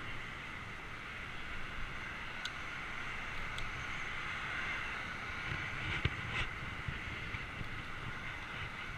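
Steady rush of wind and rolling noise on a GoPro's microphone during a bicycle ride, with a few light clicks and rattles around three seconds in and again near six seconds.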